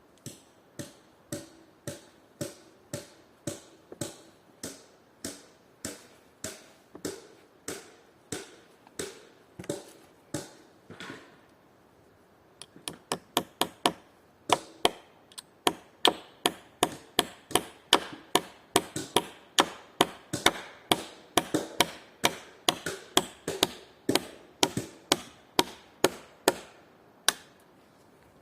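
Repeated tool blows on wood, one every fraction of a second. A steady, slower series gives way after a short pause to a faster, louder run of blows.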